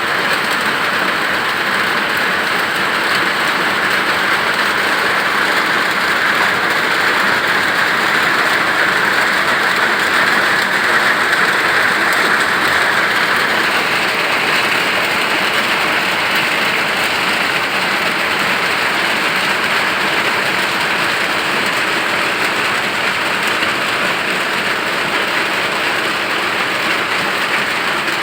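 Rain falling steadily, a dense, even hiss without a break.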